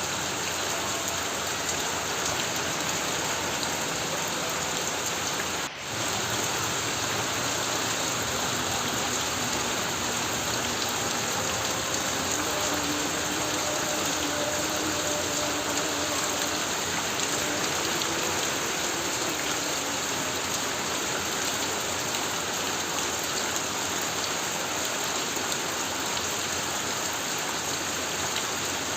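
Heavy rain falling steadily on a corrugated tin roof, with a brief drop in level about six seconds in.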